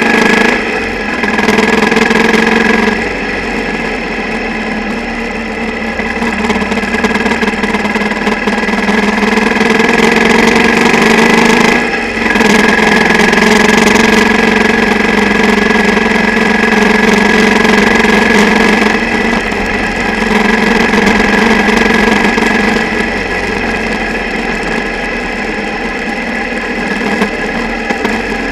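Single-cylinder motorcycle engine running on the move, picked up mostly through the camera mount as vibration rather than through the air, with the camera rattling inside its underwater housing from the single's vibration. The engine sound rises and falls in level, with short dips a few times.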